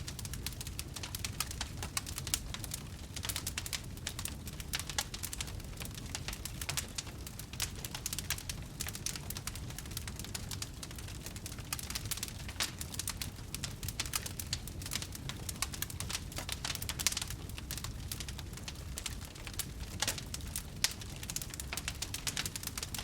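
Wood fire crackling: a steady stream of sharp snaps and pops over a low, even rumble.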